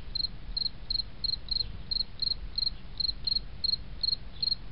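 Cricket-like insect chirping steadily, short high-pitched chirps at about three a second, over a faint low hum.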